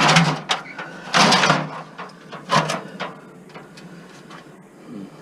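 Three loud scraping, rattling noises within the first three seconds as objects are dragged and shifted, followed by fainter knocks and clicks.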